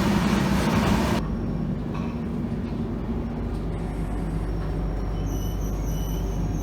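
Train running: a loud rush of wheel and track noise cuts off suddenly about a second in, leaving a low steady rumble. Faint high-pitched tones come in over it near the end.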